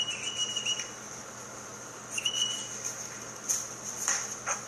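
Dog whining: two short, high, thin whines, the first lasting under a second at the start and the second about half a second long about two seconds in.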